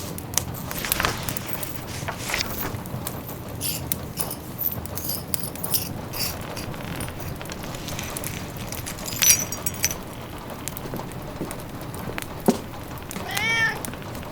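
Wood fire crackling and popping over a steady hiss of rain, with one sharper pop about two-thirds of the way through. A cat meows once near the end.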